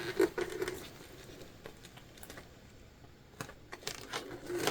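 Small plastic sewing clips clicking as they are snapped onto vinyl, with light handling of the jelly vinyl panels: a few clicks in the first second, a quiet stretch, then more clicks near the end.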